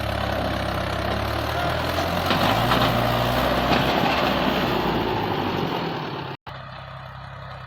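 Tractor diesel engine running steadily, growing a little louder about halfway through. It breaks off abruptly near the end and is replaced by a quieter engine sound.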